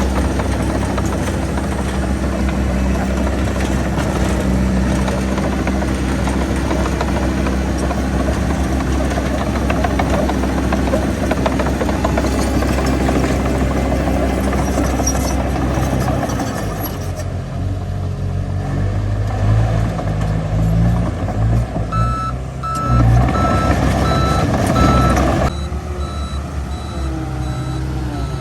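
Heavy diesel machinery engine running steadily, with a reversing alarm beeping in an even on-off rhythm that comes through most plainly in the second half.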